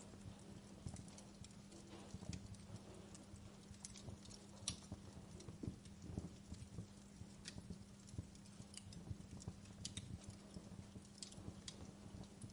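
Wood fire crackling in a fireplace, quiet: scattered, irregular pops and snaps over a low, steady rumble of burning, with a faint steady hum underneath.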